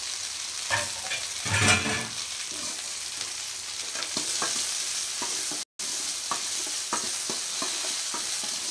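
Cut okra sizzling in hot oil in a steel kadai with onions, stirred with a metal spoon that clicks and scrapes against the pan. About one and a half seconds in comes a louder metallic scrape as the okra is pushed off a steel plate into the pan, and the sound cuts out for an instant a little past the middle.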